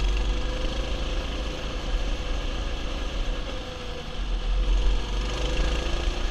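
Mini bike's small engine running steadily over a strong low rumble, easing off briefly about three to four seconds in and then picking up again.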